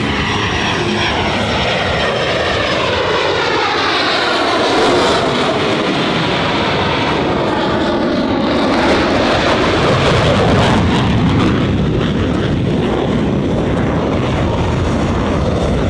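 EA-18G Growler's twin F414 turbofan jet engines running loud in a low pass. The jet noise sweeps down in pitch as the aircraft goes by, about four to eight seconds in.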